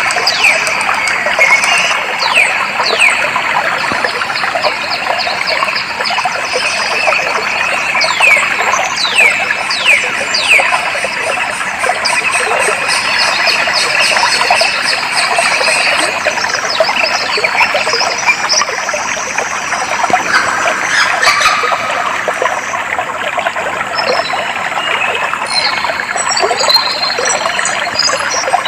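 Water flowing steadily, with birds singing over it: a bird repeats quick falling whistles through the first ten seconds or so, and fast high chirps come near the end.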